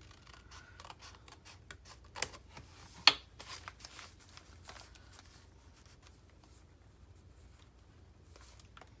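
Scissors snipping a folded paper book page, with light paper rustling and a few sharp clicks, the loudest about three seconds in.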